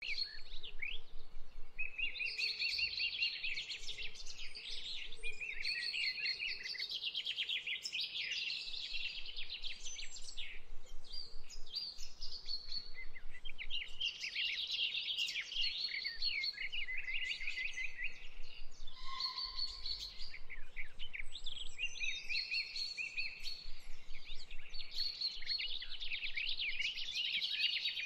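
Birds chirping and singing: many short, rapid chirps and trills overlapping continuously, starting abruptly.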